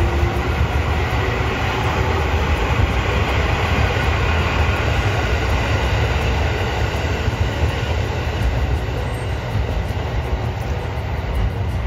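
A train running close by, making a steady, loud noise that holds throughout without a break.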